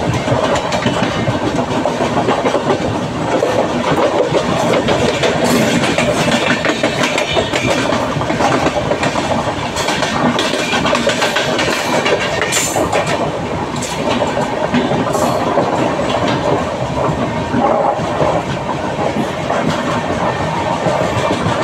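Train running along the track: a steady, loud rumble with wheels clicking over the rail joints and occasional sharp metallic clicks.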